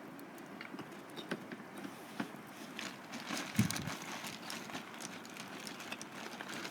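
Wood campfire crackling, with scattered sharp pops and a dull knock about three and a half seconds in.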